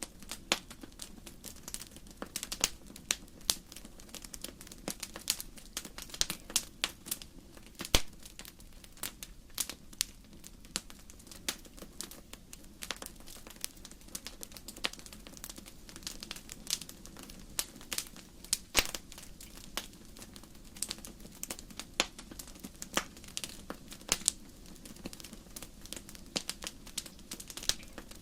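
Wood burning in a fireplace: irregular sharp crackles and pops from the logs, several a second, over a low steady rush.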